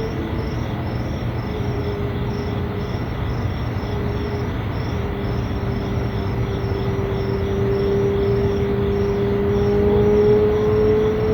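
Unexplained droning tone holding a steady pitch with a second, lower tone beneath it, sagging slightly in pitch and then rising near the end. Crickets chirp in a fast, even rhythm behind it over a low rumble.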